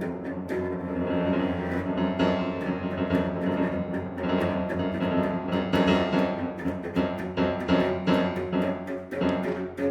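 Piano trio of violin, cello and piano playing contemporary classical music: sustained bowed string lines over dense, repeated piano attacks.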